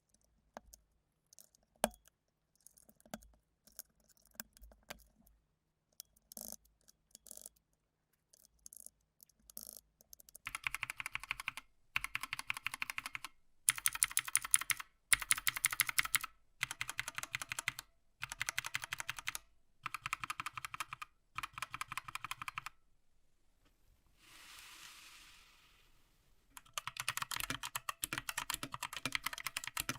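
Typing on a Redragon Draconic K530 compact mechanical keyboard. Scattered single key clicks at first, then from about ten seconds in fast runs of keystrokes in bursts of a second or two. Near the end there is a brief soft hiss, and then steady typing resumes.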